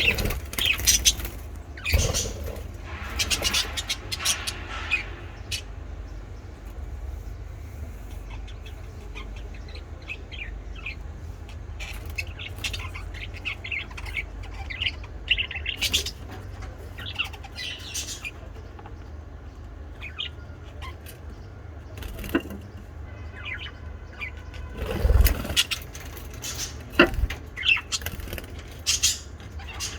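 Pet lovebirds chirping on and off in short high calls, busier near the start and again near the end, over a steady low rumble.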